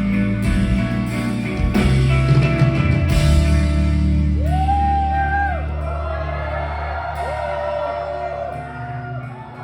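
Live rock band performing, heard from the audience in a large hall: dense guitars and drums for about three seconds, then thinning to a held low bass note with sliding, arching melodic lines above it.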